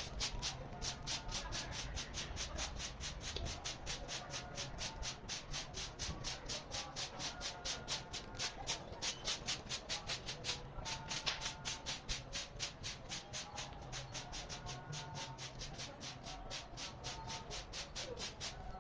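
Quick, even broom-sweeping strokes, about five a second, clearing the ground, with faint bird calls behind them.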